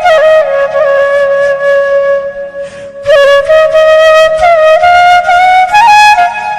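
Background music: a solo flute melody, with a long held note, a brief pause for breath about two and a half seconds in, then the tune moving on in short phrases.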